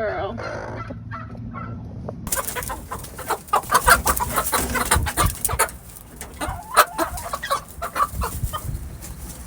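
Chickens clucking, mixed with rustling, scratching and small knocks, starting abruptly about two seconds in.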